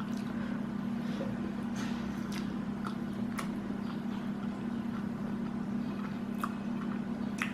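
Eating sounds: chewing with scattered small clicks and smacks, over a steady low hum.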